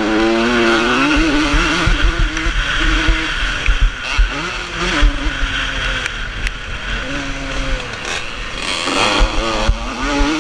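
Vintage motocross motorcycles racing, their engines revving up and falling back as riders work the throttle and gears. The engines are loudest near the start and again near the end, where bikes pass close.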